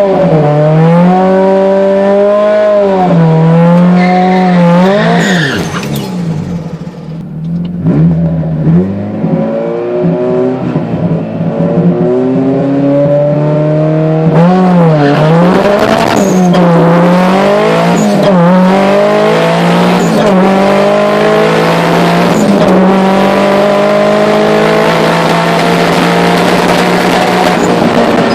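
Turbocharged Mazda Miata 1.8-litre four-cylinder engine revving up and down several times, dropping back for a while, then pulling hard with its pitch climbing steadily over the last ten seconds.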